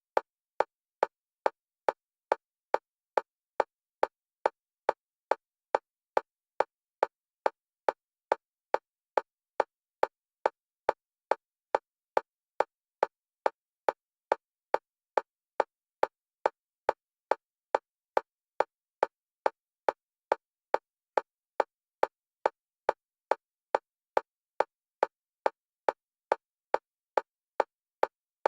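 Synthesized metronome clicks for EMDR bilateral stimulation, alternating between the left and right stereo channels. The clicks repeat evenly at about two a second, all at the same pitch and loudness.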